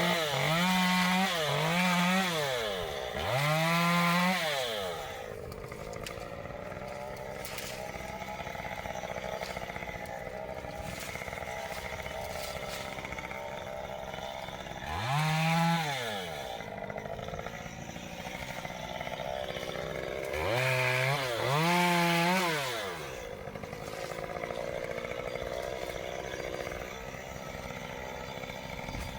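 Chainsaw engine revving up and falling back in short bursts, several times near the start, once about halfway and twice more later on, and running at a lower steady speed in between.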